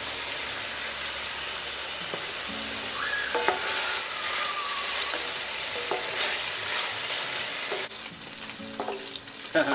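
Pork pieces frying in a pan, a loud steady sizzle as cooking oil is poured over them and they are stirred with a wooden spatula to crisp them. The sizzle drops quieter about eight seconds in.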